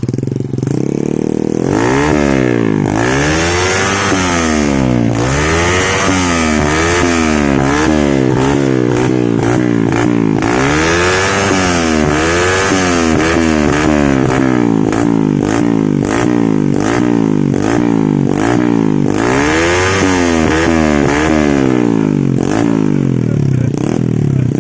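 Honda Supra Fit's small single-cylinder four-stroke engine through a Kawahara aftermarket racing exhaust, revved up and let fall again and again in quick blips. It idles steadily at the start and again near the end.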